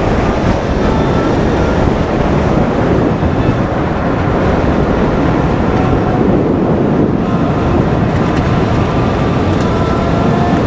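Strong wind buffeting the microphone while riding, with the faint whine of a Sur Ron electric dirt bike's motor coming and going underneath.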